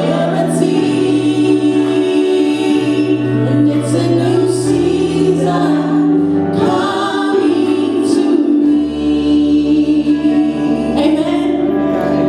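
Church praise and worship team singing a gospel worship song in chorus over instrumental accompaniment, with held notes; the bass note changes about a second in, near the middle, and again past two thirds of the way.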